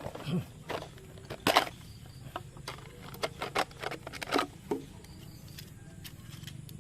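Irregular light clicks and knocks, the loudest about a second and a half in, over a faint steady low background.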